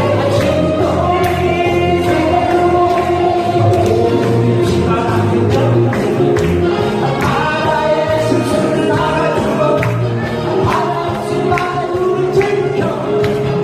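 Korean trot song sung live, a voice carrying the melody over band accompaniment with a steady beat.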